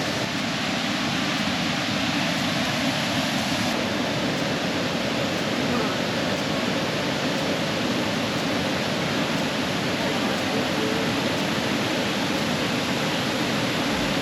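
Sandstone Falls, a broad river waterfall, rushing with a steady, unbroken noise of falling water.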